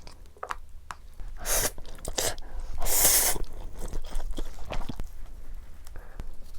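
Close-miked eating sounds: bites and chewing of potato pizza topped with spicy Buldak noodles, a run of short crunchy, wet noises with a louder noisy burst about three seconds in.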